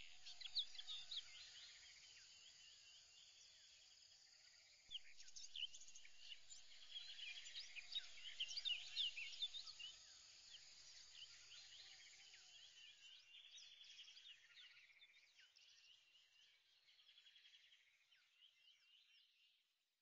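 Faint chorus of birds chirping and trilling in many short, high calls, loudest in the middle and fading out near the end.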